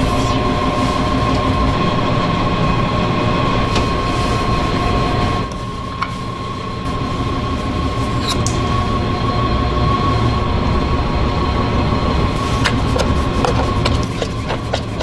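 Steady machine noise: a low rumble with a constant high whine, with a few sharp clicks and knocks. The level dips briefly about five seconds in.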